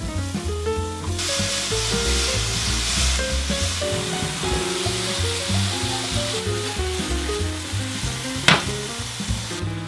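Sliced mushrooms, then halved cherry tomatoes, sizzling in hot oil in a stainless steel frying pan; the sizzle starts about a second in. There is one sharp clack near the end, and soft background music plays throughout.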